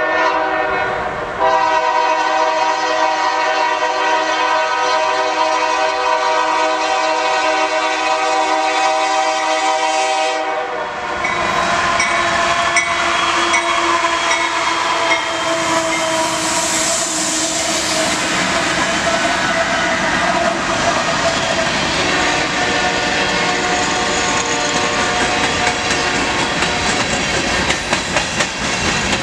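Union Pacific freight locomotive's air horn blowing a long, steady chord as the train approaches, with a brief break about a second in. About ten seconds in, the locomotives pass close by with engine noise and wheel-and-rail clatter. A string of covered hopper cars then rolls past, clacking over the rail joints.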